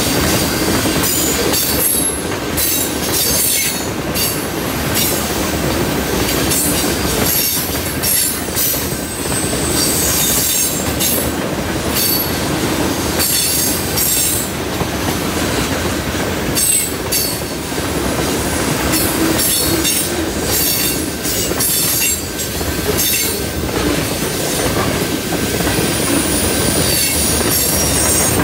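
Heavy freight train cars, mostly tank cars, rolling past on a curve: a steady rumble of steel wheels on rail with repeated wheel clacks. High wheel-flange squeal from the curve comes and goes.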